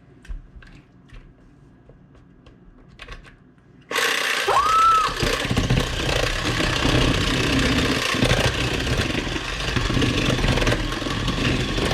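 A few faint clicks and knocks, then about four seconds in an old electric mixer switches on abruptly and runs loud and steady, beating cream cheese and pineapple.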